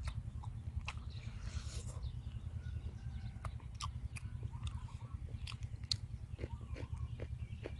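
Close-up eating sounds of chewing and biting into deep-fried chicken wings: scattered short crisp clicks and smacks over a steady low rumble.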